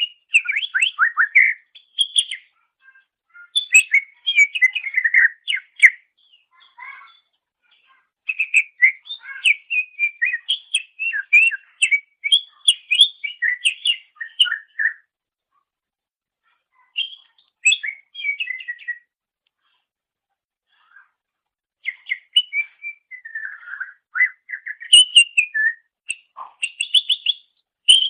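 Greater green leafbird (cucak ijo) singing: fast runs of varied chirps and whistles in phrases a few seconds long, with short pauses between them.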